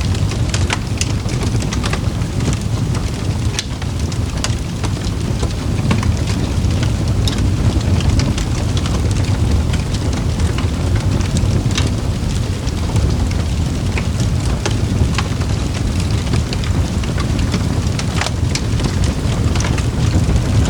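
Steady rain ambience with a low rumble, over which a wood fire crackles in scattered sharp pops.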